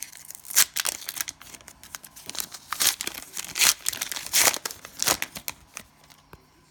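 Cellophane wrapper of a trading-card pack crinkling and tearing open in a quick run of sharp crackles that stop near the end.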